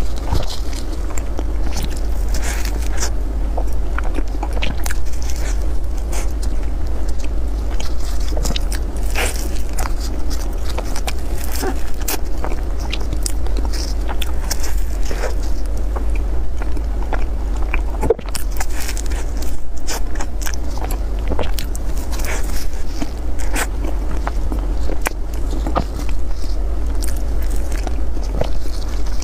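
Close-miked eating of cream puffs: soft biting and chewing with many small crackles and clicks of the pastry, over a steady low hum.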